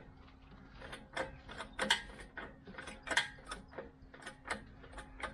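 Irregular metallic clicks and knocks of a clamp being fitted and tightened on steel box section, over a faint steady hum.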